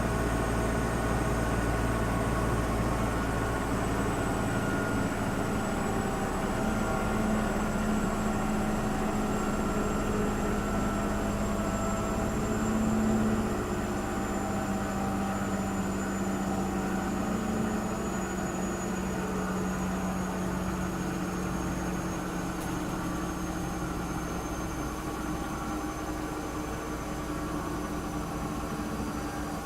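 Schulthess washing machine running, with a steady motor hum and a faint high whine that slowly drops in pitch; a low hum fades out about three-quarters of the way through.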